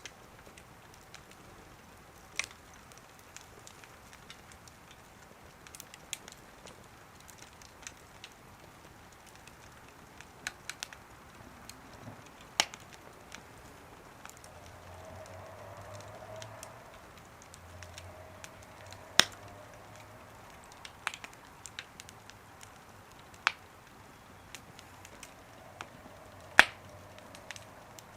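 Wood fire crackling in a small wood stove: scattered sharp pops every few seconds over a faint hiss.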